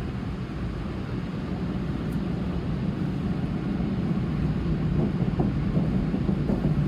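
Automatic car wash air dryers blowing on the car: a steady rush of air that grows gradually louder.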